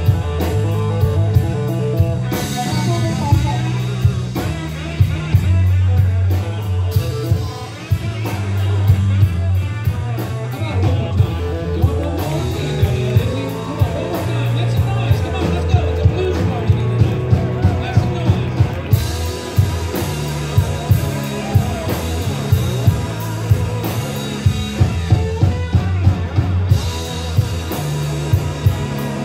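A live band playing a blues-rock song: electric guitar, bass and drum kit, with a steady beat.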